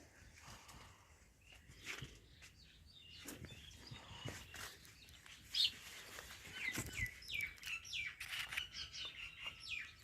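Small birds chirping: a string of short, quick falling chirps that come thicker and faster in the second half, with faint rustles and clicks underneath.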